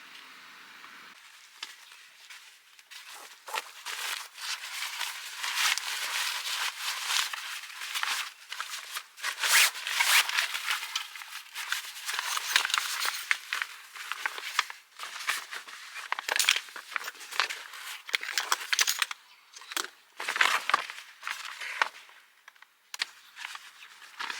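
Dokudami (fish mint) stems, leaves and roots being handled and pulled apart: irregular rustling, crinkling and tearing of fresh plant material as the roots are trimmed and prepared.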